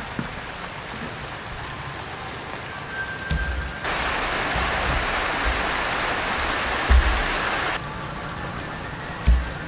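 Steady rain falling, heavier for about four seconds in the middle, with a few low thumps.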